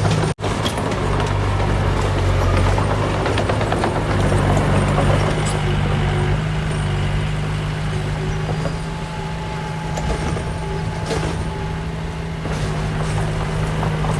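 Heavy diesel engine of an earthmoving machine, a bulldozer or dump truck, running steadily at a constant speed, with a few light clanks. The sound drops out for a split second just after the start.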